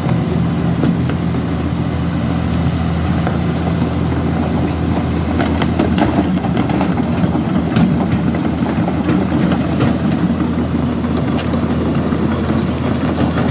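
Excavator's diesel engine running steadily, with scattered knocks and clanks around the middle.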